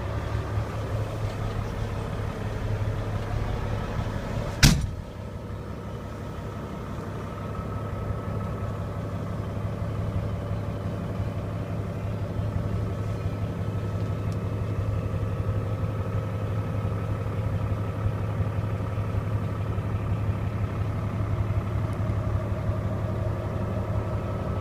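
Heavy diesel truck engine, the Cat 3406E of a 1999 Western Star 4900, idling steadily, heard from inside the cab. A single sharp thump about five seconds in.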